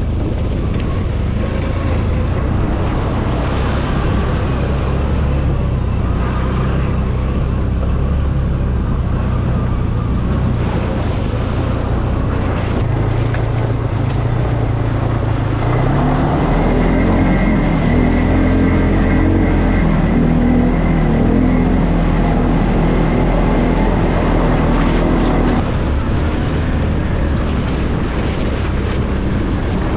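ATV engine running while riding. The revs rise about halfway through, hold higher for about ten seconds, then drop back near the end.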